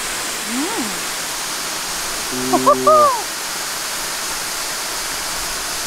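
Steady rush of a nearby waterfall, with a brief hummed 'mmm' and gliding 'whoa'-like exclamations about two and a half seconds in.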